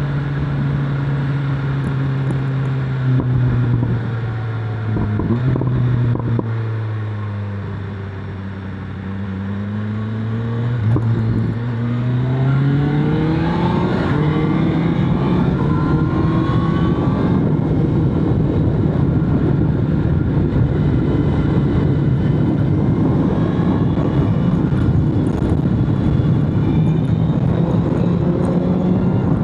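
BMW S1000RR sport bike's inline-four engine heard from the rider's seat: its note falls as the bike slows over the first several seconds, then climbs under acceleration and holds at a higher, steady pitch with a rush of wind noise.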